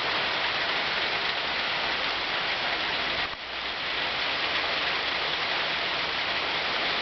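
Heavy rain falling, a steady dense hiss with a brief dip about three seconds in.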